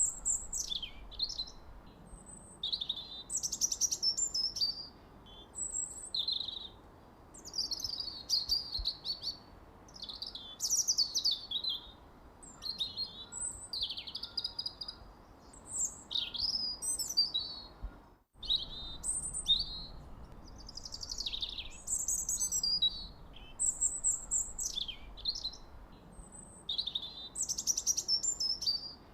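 Songbirds singing: short high-pitched chirping and trilling phrases following one another every second or two, with a split-second dropout about two-thirds of the way through.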